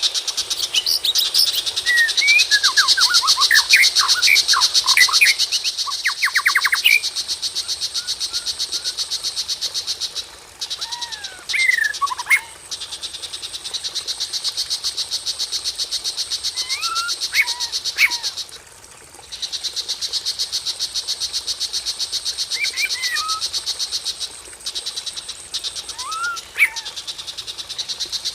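Songbird whistling short phrases of slurred, gliding notes in several separate bursts, over a fast, steady, high-pitched pulsing trill like a cricket. The trill breaks off briefly a few times. The mix is a lure song for provoking a white-rumped shama to sing.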